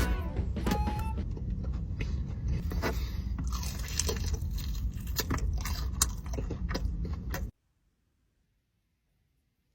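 Close-up eating: biting, crunching and chewing, with many sharp crackles over a steady low rumble. It cuts off abruptly about seven and a half seconds in, leaving near silence.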